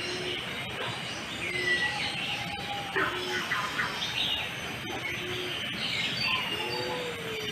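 Several birds calling together: a short low hoot repeated about once a second, with higher whistles and chirps from other birds over it.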